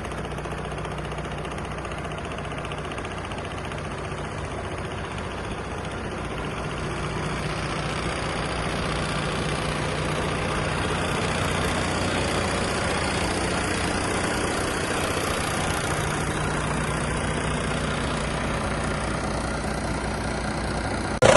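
Diesel engine of a 2011 Iveco AS440ST truck head idling steadily, growing somewhat louder from about seven seconds in.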